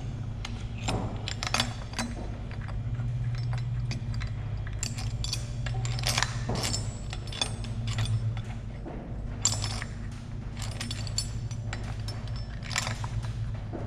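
Scattered metallic clinks and knocks of hand tools and engine parts being handled at irregular intervals, over a steady low hum.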